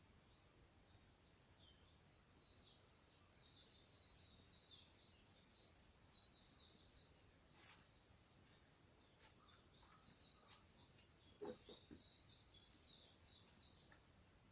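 Faint birdsong: a fast, chattering run of high chirps, in two long phrases with a short break between. A few sharp cracks from the burning wood of a campfire come in the break and in the second phrase.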